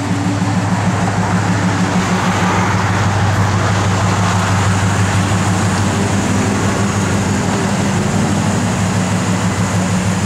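1971 Pontiac LeMans Sport's 400 cubic inch V8 with dual exhaust idling steadily, a low, even engine note.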